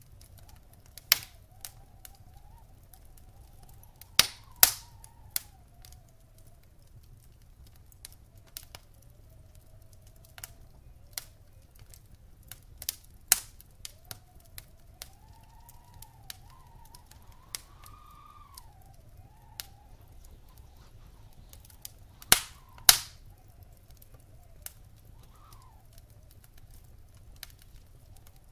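Wood fire crackling in a fireplace, with scattered sharp pops; the loudest come in pairs about four seconds in and again around twenty-two seconds in. A faint whistle rising and falling in pitch runs beneath it.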